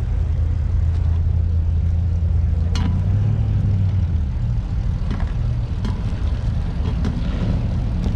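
A car engine running with a low, steady rumble that rises a little in pitch about three seconds in, then spreads into a rougher rumble. A few sharp clicks are scattered through it.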